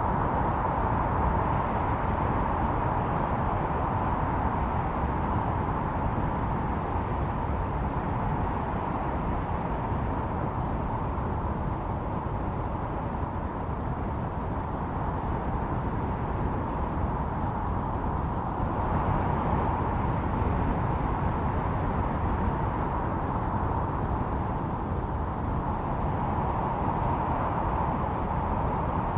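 Blizzard wind howling steadily over a deep rumble, its whistling tone loudest at the start, easing in the middle and swelling again near the end.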